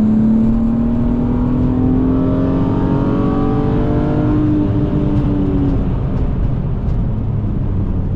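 BMW E36 M3 straight-six pulling under throttle, its pitch climbing steadily for about five seconds, then falling away as the driver lifts off, leaving road and tyre noise.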